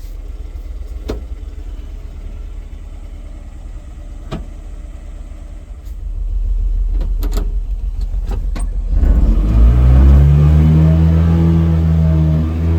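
1987 Honda Acty truck's small engine running with a low rumble and a few sharp clicks, then revving up about nine seconds in, the pitch rising and then holding steady at higher revs.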